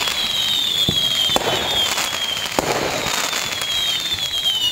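Rocket launch sound effect: a steady rushing hiss with high whistles that slowly fall in pitch one after another, and a few sharp pops, like a whistling firework rocket.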